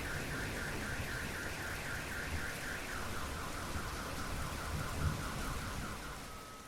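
Car alarm sounding over steady rain: a rapid pulsing tone at about five pulses a second, which drops to a lower pulsing tone about halfway through and ends on a steady tone as it fades out.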